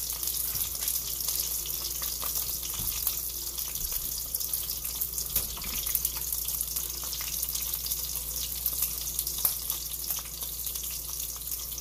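Beef pieces sizzling in oil in a cast-iron skillet: a steady hiss with scattered crackles.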